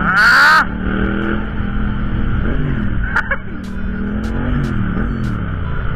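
Motorcycle engines running on the move in traffic: a steady drone that twice rises and falls in pitch, with road noise. A loud, short, high-pitched blast at the very start stands out above it.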